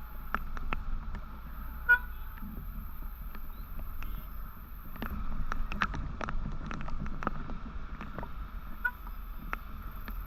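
Riding a motorcycle in traffic: a steady low engine and road rumble with many scattered sharp ticks. A short vehicle horn toot sounds about two seconds in, and a fainter one near nine seconds.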